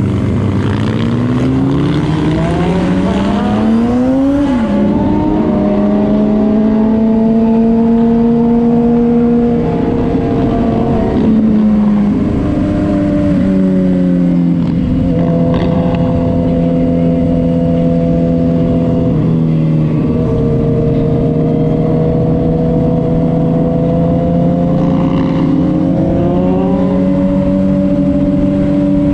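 Vehicle engine under way, revving up over the first four seconds and dropping sharply with a gear change, then cruising at a fairly steady pitch with a few small drops in engine speed, over road and wind noise.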